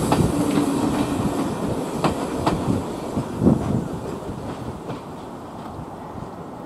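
Railway passenger coaches rolling past and away, their wheels clicking over the rail joints now and then, the running noise fading steadily as the train draws off.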